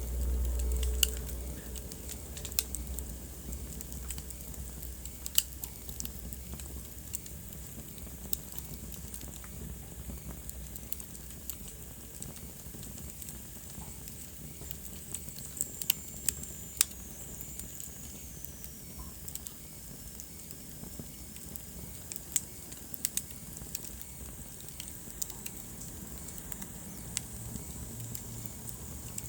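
Wood fire burning in a fireplace, crackling with irregular sharp pops over a low steady rumble. About halfway in, a faint high whistle falls slowly in pitch.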